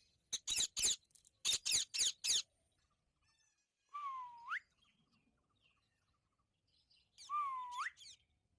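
Parrots calling: two quick runs of sharp chirps, three and then four, followed by two whistles about three seconds apart, each dipping slightly and then sweeping up steeply.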